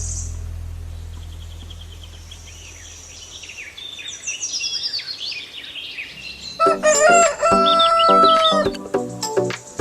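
Background music fades out, small birds chirp, then a rooster crows loudly, about seven seconds in.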